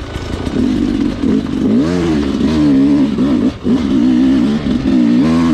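Sherco two-stroke dirt bike engine under way on a technical trail, revving up and down repeatedly as the throttle is worked, with a brief drop about halfway through.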